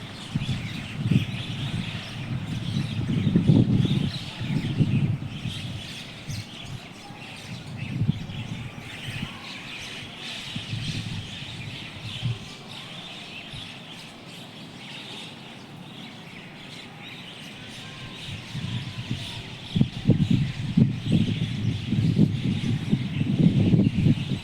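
A flock of birds chirping and chattering together in a dense, continuous twittering. Loud bursts of low rumble come in the first few seconds and again near the end.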